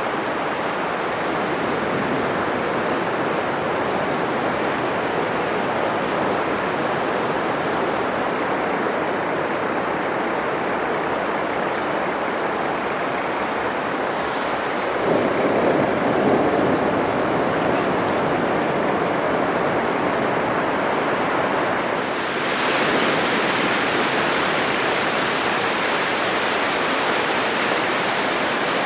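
Atlantic surf breaking on a sandy beach: a continuous rush of waves, with one wave crashing louder about halfway through and a brighter, hissier wash setting in about two-thirds of the way.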